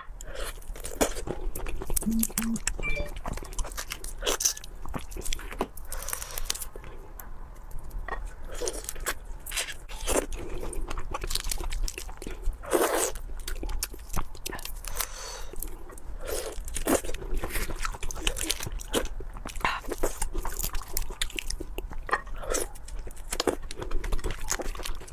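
Close-miked crunching and chewing of crispy food: many sharp, irregular crunches in quick succession.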